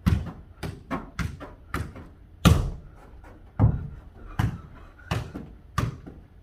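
A football being kicked back and forth and bouncing on the floor in a foot-volleyball rally: about ten sharp thuds at an uneven pace, the loudest about two and a half seconds in.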